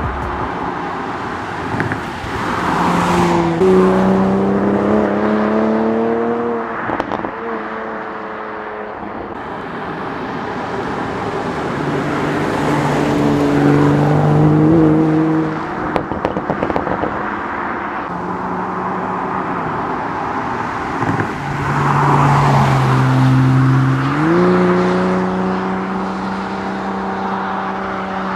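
Toyota GR Supra's 3.0-litre turbocharged inline-six under way, its note climbing sharply as it accelerates a few seconds in and again about three-quarters of the way through, easing off in between, over road and wind noise.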